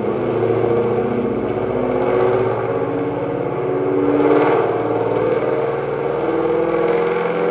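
Ford Mustang's Gen 1 Coyote 5.0 V8, running E85 with full bolt-ons, runs steadily on a chassis dyno, swelling briefly about halfway through. A faint high whine rises slowly in pitch.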